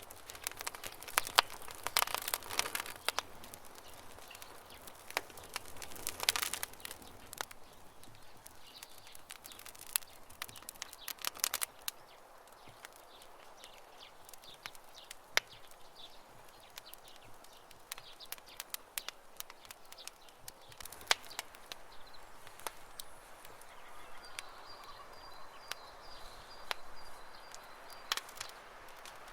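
Campfire crackling: irregular sharp pops and snaps of burning wood, coming in little clusters, over a soft hiss, with faint bird chirping in the background.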